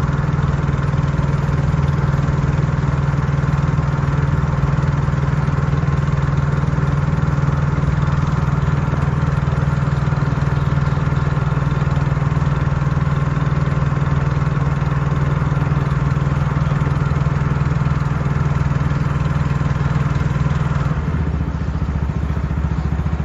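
Motorboat engine running steadily; near the end its note drops lower.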